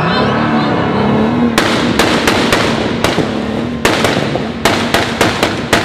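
A tuned car engine revved up and held at high revs, with a rapid, irregular string of sharp exhaust bangs and pops starting about a second and a half in.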